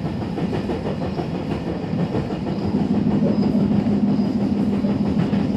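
Electric train running, heard from inside the passenger car: a steady wheel-on-rail rumble with clickety-clack, and a steady motor hum that comes in and grows louder about halfway through. A rhythmic 'tan-tan-tan' knocking in the running is, to a rider, new since the train hit a wild boar, a sign of possible damage.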